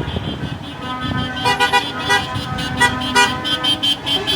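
Truck horns tooting in a rapid string of short blasts, starting about a second and a half in, over the low running of lorry engines.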